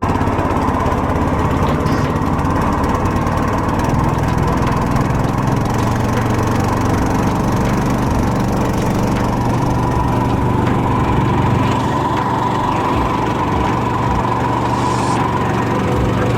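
Predator 224cc single-cylinder four-stroke engine on a longtail mud motor running steadily at an even speed.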